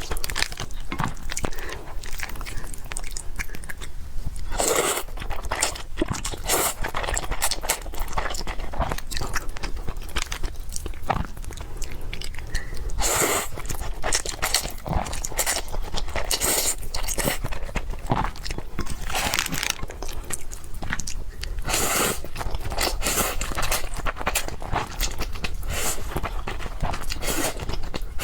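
Close-miked mukbang eating: repeated bites and chewing, made of many short, sharp mouth noises, with louder bites every few seconds.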